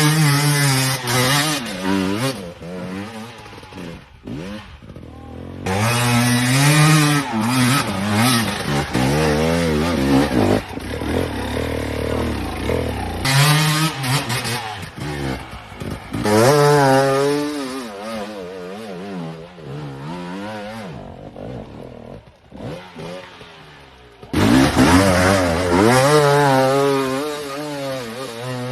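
Two-stroke motocross bike engine revving hard in repeated bursts, its pitch rising and falling with the throttle, with quieter spells between the loudest runs.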